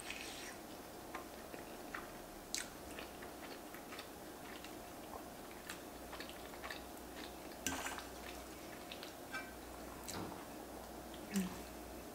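Close-up wet chewing and mouth sounds of someone eating fresh sacchetti pasta in creamy carbonara sauce, with scattered clicks and clinks of a metal fork against the dish and teeth. The three sharpest clinks come about two and a half, eight and eleven seconds in. A faint steady hum runs underneath.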